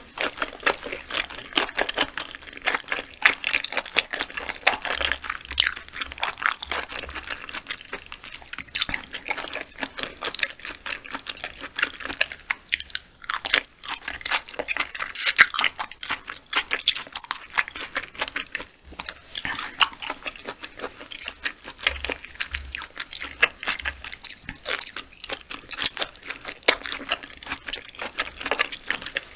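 Close-miked mouth sounds of someone chewing raw yellowtail sashimi: a dense, continuous run of small clicks and pops.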